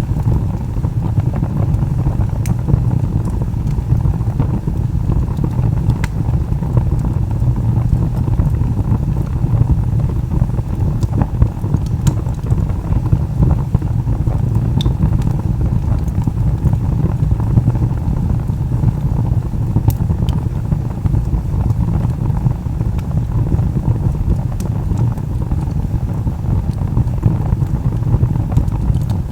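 Wood log fire burning: a steady low rumble of flames with a few sharp crackles and pops scattered through.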